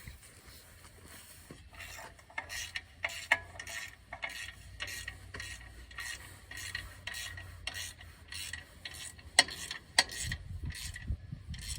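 Ratchet wrench being worked in short, rapid rasping strokes, about two a second, with a sharp knock about nine seconds in and a low rumble near the end.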